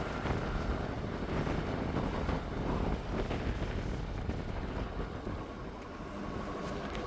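Ford Super Duty diesel pickup driving on a rough dirt forest road, heard from inside the cab: a steady engine and road rumble.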